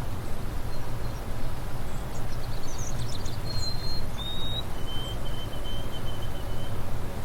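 A bird calling: a quick cluster of high chirps about halfway through, then a few held whistled notes, each a step lower than the last, ending in a row of short notes. Under it runs steady outdoor background noise with a low rumble.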